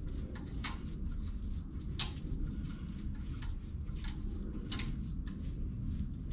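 Irregular sharp metallic clicks, roughly one or two a second, from a hand tool cutting threads in a Northstar engine block's stripped head-bolt hole, over a steady low rumble.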